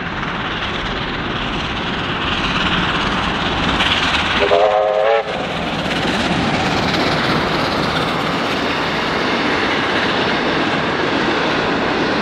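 Train running past close by, with the steady rumble and clatter of its wheels on the rails. About four and a half seconds in comes a short warning blast: a chord of several tones, under a second long.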